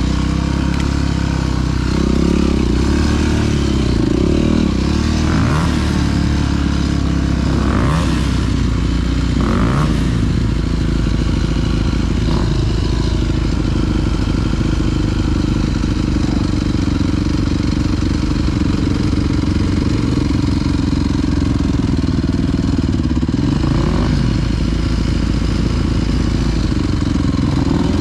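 Dirt bike engine running continuously while riding a trail, revving up and down several times in the first half, with a few sharp clattering knocks.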